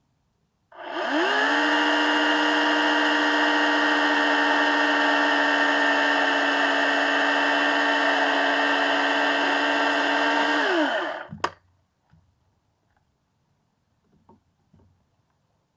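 Electric saw motor spinning up, running at a steady speed for about ten seconds, then winding down, followed by a sharp click and a few faint knocks.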